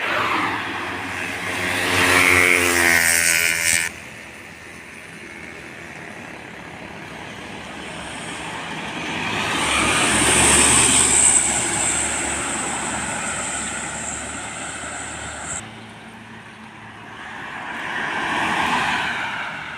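Heavy trucks passing close by on a road, one after another. The first passes with its engine note falling and is cut off abruptly; a second swells past with a high steady hiss, and a third swells past near the end.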